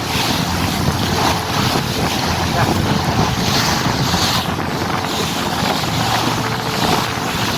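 Wind buffeting the microphone on the deck of a moving cruise boat, over a steady low engine hum and rushing water.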